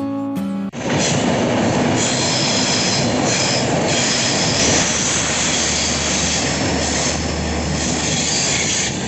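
Passenger train running along the track: a loud, steady rolling noise with a high squeal from the wheels on the rails over it.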